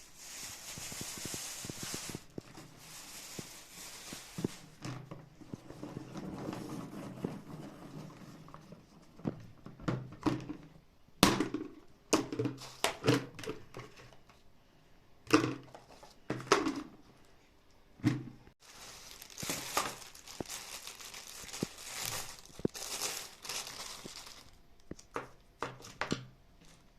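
Plastic and paper packaging crinkling and tearing as new items are unpacked, with a series of sharp knocks and thunks of objects being handled and set down, loudest in the middle.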